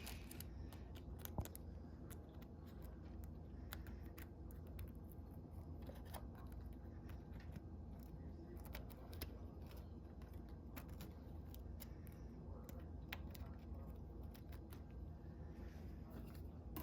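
Faint, scattered small clicks and handling noises of hands working on the opened stand mixer's control-board contacts, over a low steady hum. One sharper click comes about a second and a half in.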